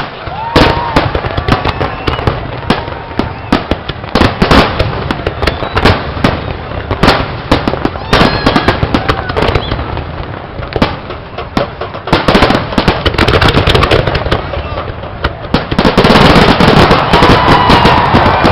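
Fireworks display: a rapid, irregular string of sharp bangs and crackles, growing denser and louder near the end.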